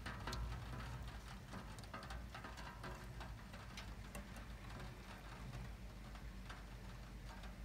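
Light rain pattering, with scattered drops ticking at irregular intervals.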